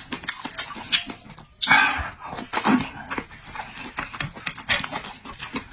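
A person eating close to the microphone: irregular, noisy chewing with short wet smacks.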